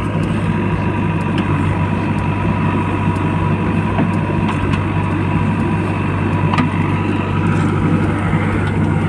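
Heavy vehicle engine running steadily with a constant low hum. It cuts off suddenly at the end.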